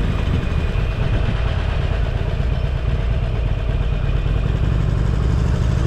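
Motorcycle engine running steadily under way, a low drone with steady rushing noise over it. The drone eases off just after the start and picks up again about four and a half seconds in.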